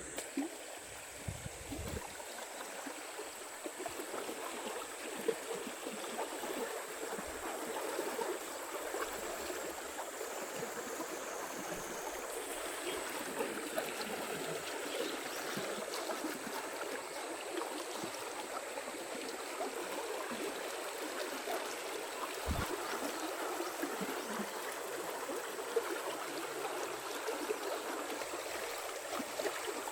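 Steady rushing of flowing water, with a thin, steady high whine above it.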